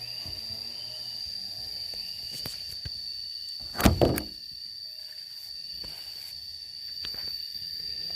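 Steady high-pitched insect trill over faint outdoor background noise, with a loud double thud a little under four seconds in.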